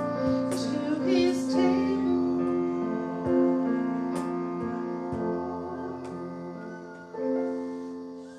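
Hymn singing with piano accompaniment, closing with a last piano chord struck about seven seconds in and fading away.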